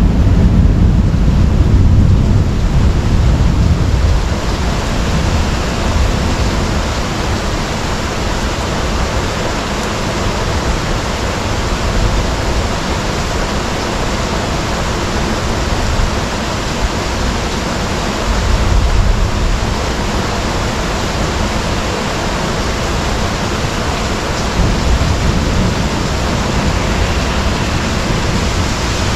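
Heavy thunderstorm downpour, a steady loud hiss of rain, with low rumbling that is strongest in the first few seconds and swells again briefly twice later on.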